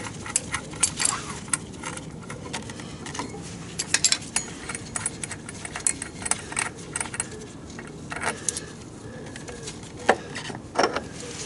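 Hand tools and small metal parts clinking and clicking irregularly, with a few louder knocks.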